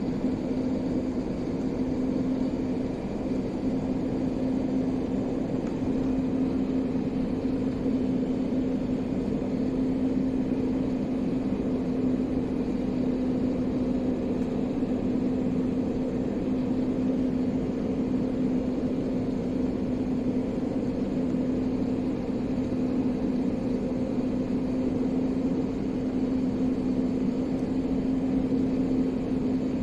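Airliner cabin noise: the engines' steady drone with a constant low hum and a fainter tone an octave above it.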